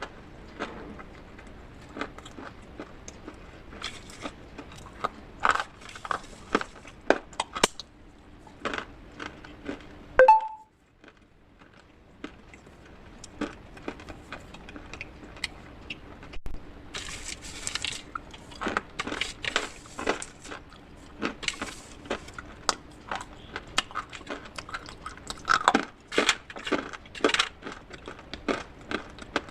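Brittle pieces of baked clay pot and slate crunching and clinking as they are crushed with a spoon in a bowl, in irregular sharp cracks. About ten seconds in there is one short ringing clink, after which the sound briefly drops off before the crunching picks up again.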